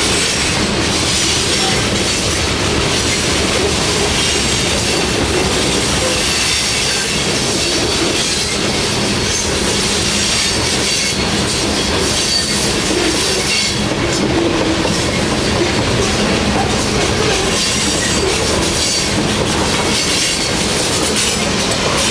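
Freight train of open-top hopper cars rolling past close by: a steady, loud clatter and rumble of steel wheels on the rails.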